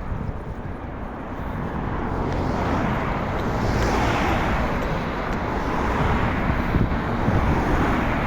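Wind rushing over the microphone of a moving bicycle, with road traffic noise that swells about halfway through.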